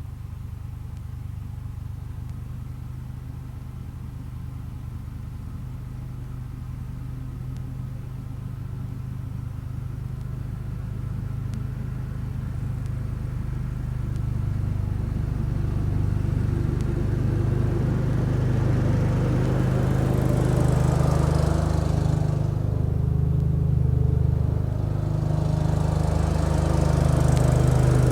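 1975 Case 224 garden tractor's engine running with its snow thrower, growing steadily louder as it draws closer. A hiss rises over the engine about twenty seconds in and again near the end.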